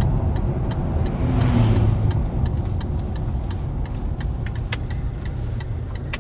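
A car driving: a steady low engine and road rumble, with many small clicks and knocks and a brief swell in the noise about a second in.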